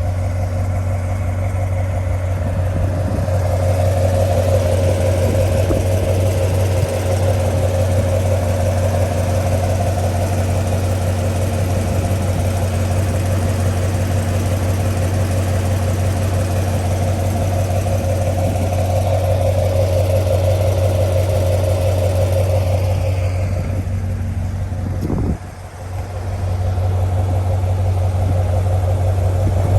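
Corvette C7's LT1 6.2-litre V8 idling steadily with a ticking noise. The sound drops briefly about 25 seconds in, then settles back to the same idle.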